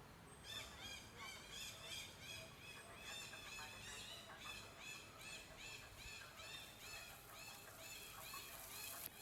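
Red-breasted parakeets giving harsh, nasal calls over and over, about two to three a second, starting about half a second in. A sharp click comes just before the end.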